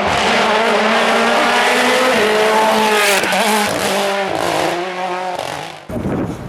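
Rally car engine at high revs. Its pitch holds steady, then dips and climbs again around gear changes about three and four seconds in, and the sound cuts off abruptly near the end.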